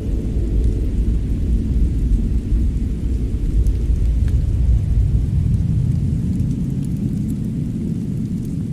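Fire burning in a fireplace: a steady low rumble with a few faint crackles.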